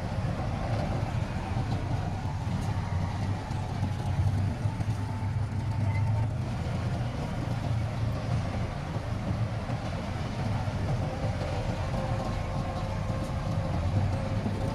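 Heavy earthmoving machine's diesel engine running steadily under load, a continuous low rumble with faint steady whine tones above it.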